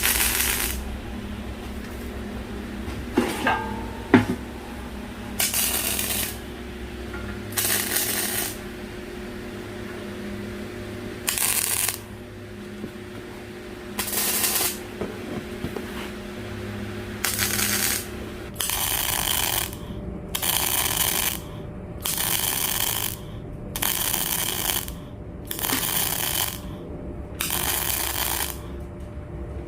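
Electric arc welding on sheet steel: a series of short welds, each a burst of hissing noise about a second long. They come irregularly at first, then in a steady run about every second and a half for the last ten seconds.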